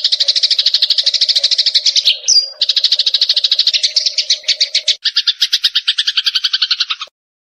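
Eurasian tree sparrows chirping in a rapid, continuous chatter of about ten chirps a second, a bird-lure recording. There is a short whistle a little over two seconds in, and the chirping turns lower about five seconds in. The sound cuts off abruptly near the end.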